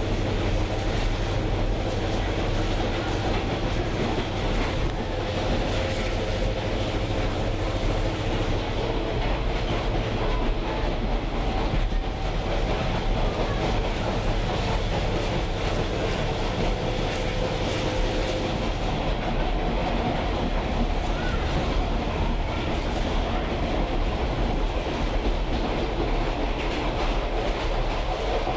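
Train rolling along the track, heard from the caboose at the rear: steady wheel and rail noise.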